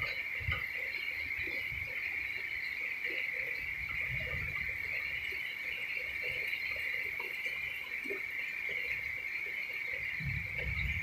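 A steady, unbroken chorus of insects such as crickets, in one high-pitched band. A low rumble comes in near the end.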